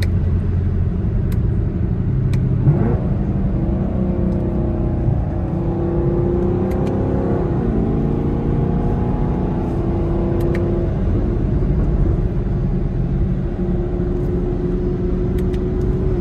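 Chevrolet Camaro SS V8 engine and exhaust heard from inside the cabin over a steady road rumble. The engine note climbs under acceleration for a few seconds, drops sharply about seven and a half seconds in as the car shifts up, then settles into a steady cruise.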